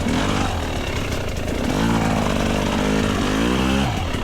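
Dirt bikes riding past one after another, their engine notes climbing and falling as they rev by. Under them a two-stroke dirt bike, a GasGas EC300, idles steadily.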